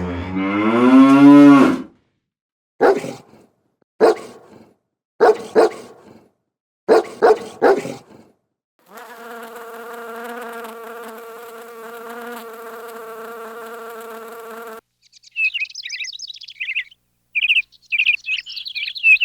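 Animal sounds in a row. A cow moos with a rising pitch, then about seven short animal calls follow in quick singles and pairs. After that comes a steady buzzing drone lasting about six seconds, and from about three-quarters of the way in, high bird chirps.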